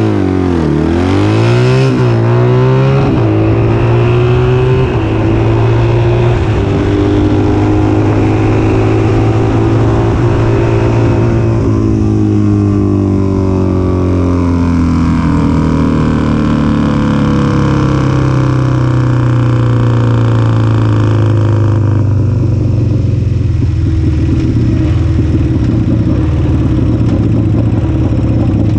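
Harley-Davidson Sportster drag bike's 1275 cc air-cooled V-twin running under way at moderate speed. The revs blip down and up in the first couple of seconds, then hold a steady drone, ease down about halfway through and stay lower toward the end.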